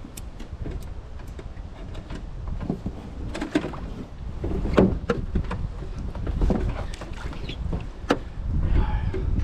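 Steady low rumble on the water around a small fishing boat, with scattered knocks and clicks; the sharpest knocks come about three and a half, five and eight seconds in.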